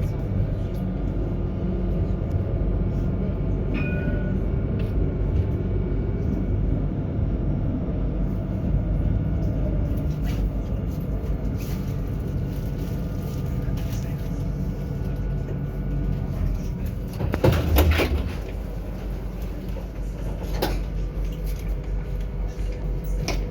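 Alstom tram running on its rails, heard from the driver's cab: a steady low rumble with a motor hum. About three-quarters of the way through there is a brief loud clatter.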